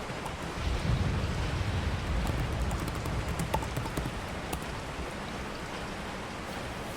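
Steady rain falling, an even hiss, with a low rumble that swells about a second in and fades by about four seconds.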